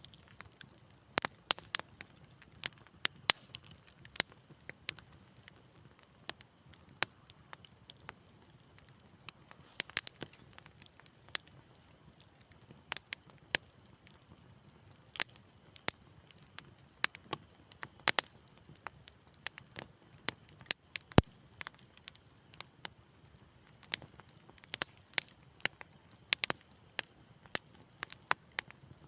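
Wood fire crackling: sharp irregular pops and snaps, a few a second, over a faint low rumble.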